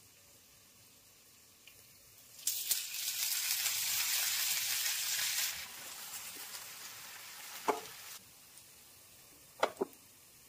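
Food sizzling in hot oil in an aluminium cooking pot: a loud sizzle starts suddenly about two and a half seconds in, eases after about three seconds and dies away a little later. A few sharp clicks follow near the end.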